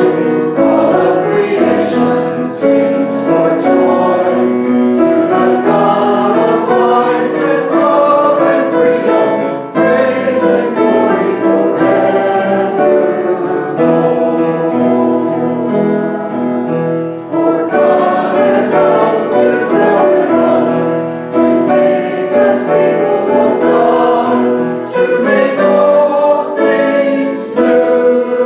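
A group of voices singing a church hymn together, with instrumental accompaniment, moving through sustained chords.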